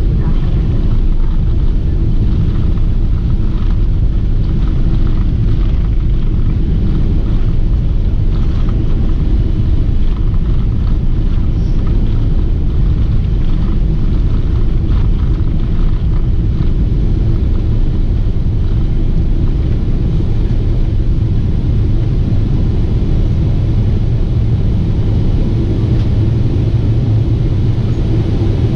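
Steady low rumble of a Boeing 747-8 airliner in flight, engine and airflow noise holding an even level throughout.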